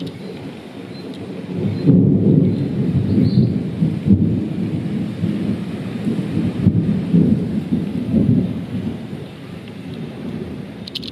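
Rolling thunder from a departing dry thunderstorm: a long, low rumble that swells about two seconds in and rolls on in uneven waves, easing a little toward the end.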